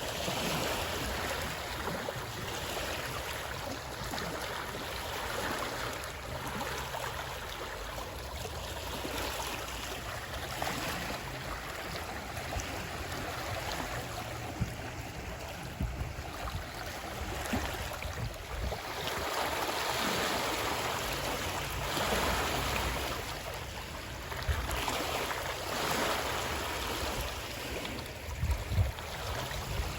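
Moving water: a steady rushing that swells and eases every few seconds, with a few short low knocks near the end.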